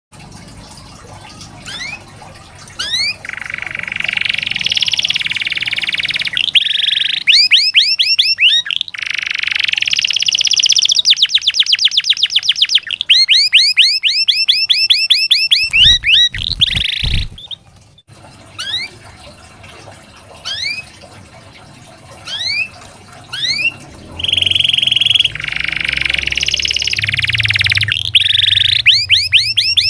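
Domestic canary singing: fast rolling trills and runs of quick rising chirps, with a short break just past halfway where a few low thuds are heard.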